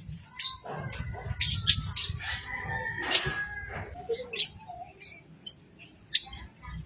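African lovebird chirping: a series of short, sharp, high-pitched chirps at irregular intervals, loudest about three seconds in.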